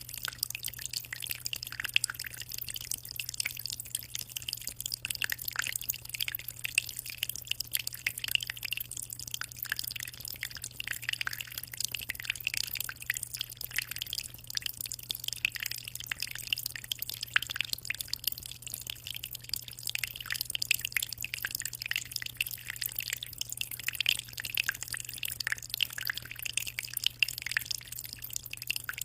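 Water in a small home aquarium trickling and splashing: a constant patter of small drips and splashes over a steady low hum.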